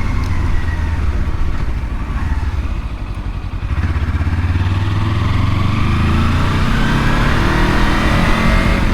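Kawasaki Versys-X 300's parallel-twin engine running under way. It is a little quieter for the first few seconds, then pulls harder from about four seconds in, its pitch rising steadily as it accelerates.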